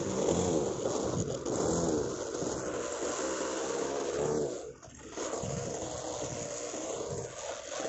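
OS 46 two-stroke nitro glow engine of a radio-controlled model plane running at speed in flight. Its high whine rises and falls in pitch as the plane passes on its laps, and it dips briefly just before the midpoint.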